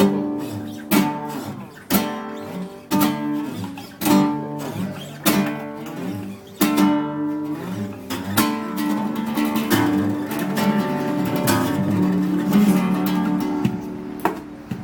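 Two acoustic guitars playing a duet: chords strummed about once a second, then from about eight seconds in a denser run of sustained, overlapping notes.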